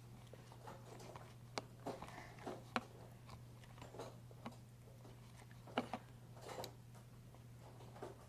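Glue-and-borax slime being squeezed and pulled in the hands, giving faint, irregular sticky clicks and squelches, over a steady low hum.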